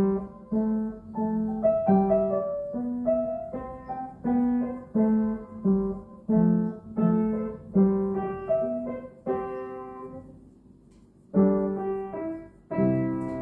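Solo piano playing melody notes over chords in a steady rhythm, each note struck and then decaying. It pauses briefly near the end, then a few final chords ring out.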